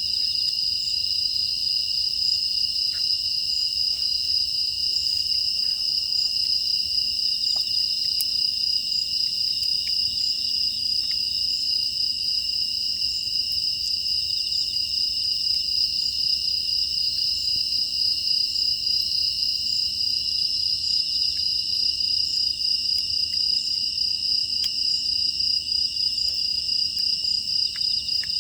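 Chorus of grass insects, crickets, trilling steadily and without pause in two high-pitched bands, with faint scattered crackles.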